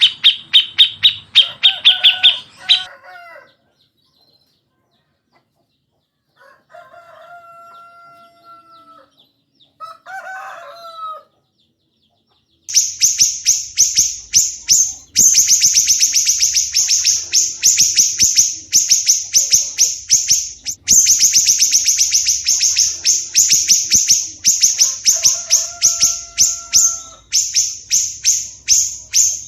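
Recorded songbird calls from a cucak jenggot and siri-siri kecil masteran track. A quick burst of rapid chattering notes opens it, then after a pause come two steady whistled calls. From about halfway in, a loud, dense run of fast, harsh chattering trills continues with only brief breaks.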